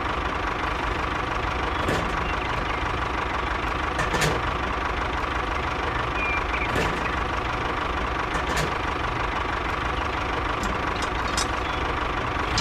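Small motor of a miniature DIY street-cleaning tractor model running steadily, with a faint even whine and a few sharp clicks scattered through.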